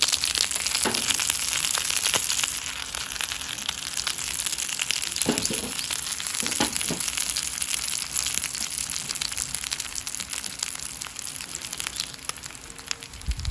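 Wood fire crackling in a Solo Stove, with mackerel sizzling as it grills over the flames. A few light knocks come through about a second in and again between five and seven seconds in.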